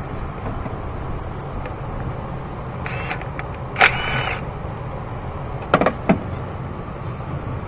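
A few metallic clinks and clicks of hand tools and bolts: a ringing clink about four seconds in and two sharp clicks near six seconds, over a steady low hum.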